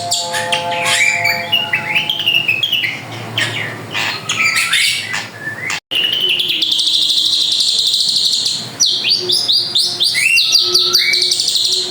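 A drongo singing energetically in a varied run of quick chirps, whistles and sweeping notes. The song breaks off abruptly for a moment about halfway through, then a long buzzy trill of a couple of seconds gives way to more rapid chirps.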